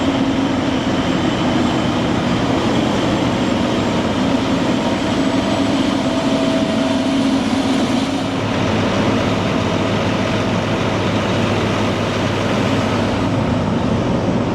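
Heavy vehicle engine running steadily under way, a constant loud drone with a steady hum and driving noise.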